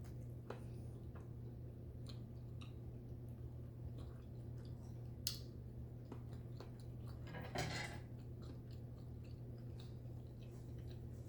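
Quiet chewing of pot pie, with a few faint scattered clicks and a brief rustle about three quarters of the way through, over a low steady hum.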